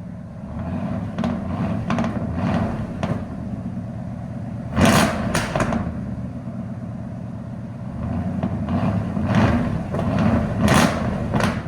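Ford 460 big-block V8 with a mild cam, breathing through headers and true dual Flowmaster Outlaw mufflers, idling with a lumpy rumble and given short throttle blips, the loudest about five seconds in and near the end. Sharp exhaust backfire pops come with some blips; the engine is still a little cold.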